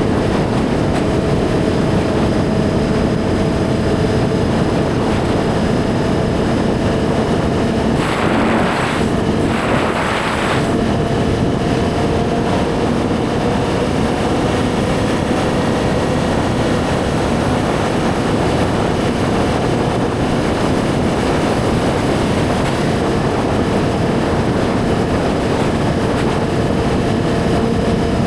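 Suzuki GSX-R1000 inline-four engine running at a steady cruise under way, with wind noise over it. Two short bursts of hiss come about eight to ten seconds in.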